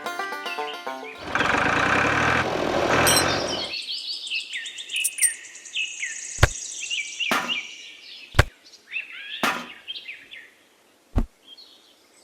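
A loud rushing noise for about two and a half seconds, then small birds chirping over several seconds, with five sharp knocks spaced about a second apart.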